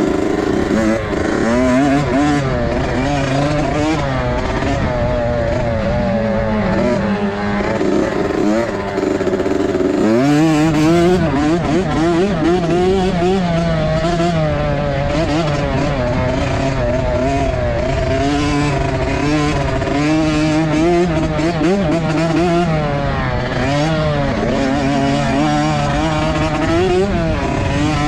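Motocross dirt bike engines running hard, the pitch rising and falling steadily as the throttle is worked, with a sharp rev-up about ten seconds in.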